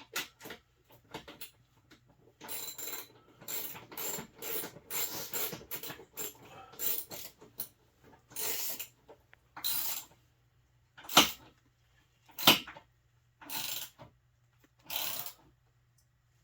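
Hand ratchet with a 10 mm socket clicking in short bursts of strokes as the rear window's clamp bolts are tightened, with two sharp knocks in the second half.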